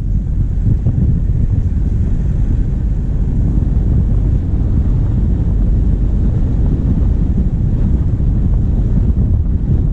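Steady low rumble of a diesel vehicle driving, heard from a camera mounted on the bonnet: wind buffeting the microphone over the running engine.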